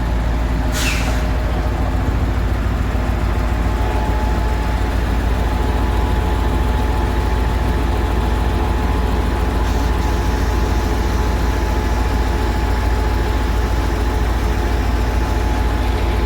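Heavy truck diesel engine running steadily. A short hiss of air comes about a second in, and a steady whine joins about four seconds in.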